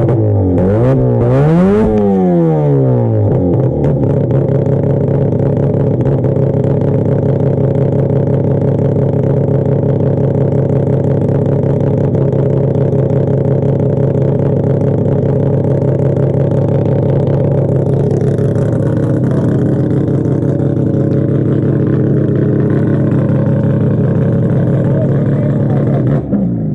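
Mazda R100 drag car's rotary engine running, ridiculously loud: a throttle blip in the first few seconds sends the pitch up and back down, then it holds a steady idle.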